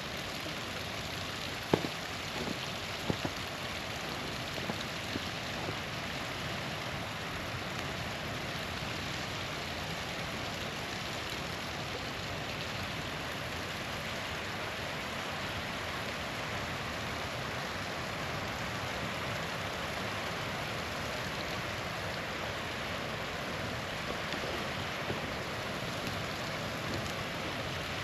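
Steady rush of a small waterfall, with a few sharp pops from a campfire, the loudest about two seconds in and a couple more about a second later.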